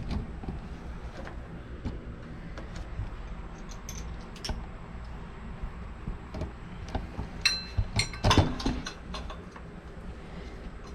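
Hand wrench or socket working on a stubborn 15 mm bracket bolt on the engine: scattered light, irregular metal clicks, then a short ringing metal clink and a few louder knocks about three quarters of the way through.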